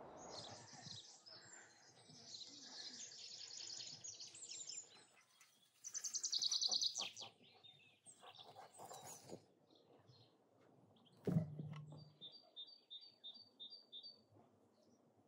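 Wild songbirds singing: trilling song at first, then a loud, rapid chattering call about six seconds in, and later a string of about seven short, evenly spaced chirps. A single sharp knock with a brief low hum sounds about eleven seconds in.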